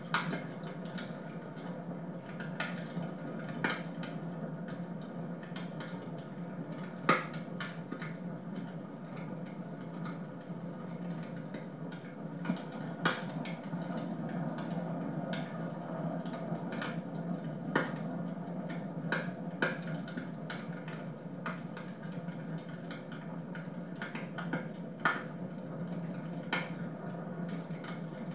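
Wood fire burning in a fireplace: a steady low rush with irregular sharp crackles and pops, a few of them louder snaps.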